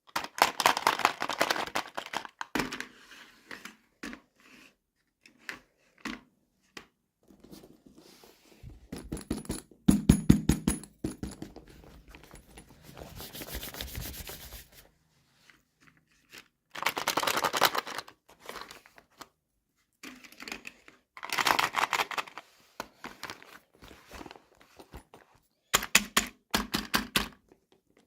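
Toy packaging being handled and opened by hand: bursts of crinkling and tearing with sharp clicks, separated by short pauses.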